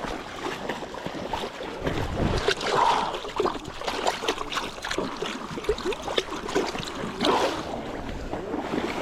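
River water rushing and splashing close by, with irregular louder splashes and wind buffeting the microphone.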